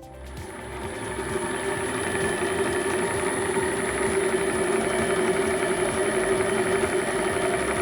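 An electric machine tool used to finish connecting rods, starting up and building over about two seconds, then running steadily with a constant hum and a thin high whine.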